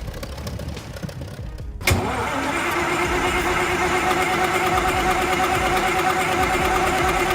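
A quieter engine sound fades out, then about two seconds in a large diesel engine comes in suddenly and settles into a steady, even run.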